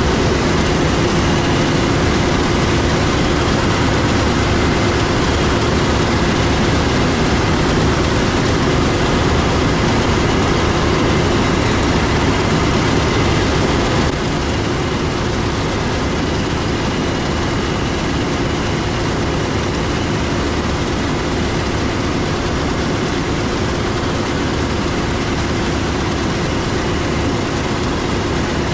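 Heavy harvest machinery running steadily: a dense engine drone with a held hum, dropping a little in level about halfway through.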